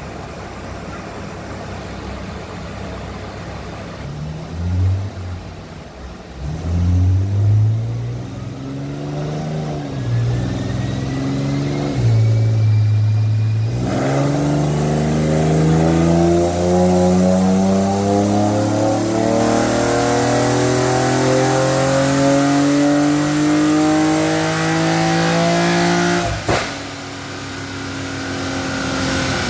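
Infiniti G37's 3.7-litre V6 running on a chassis dynamometer: it revs up and drops back several times, holds steady briefly, then makes one long pull with its pitch rising steadily for about twelve seconds. Near the end it cuts off sharply with a click and winds down.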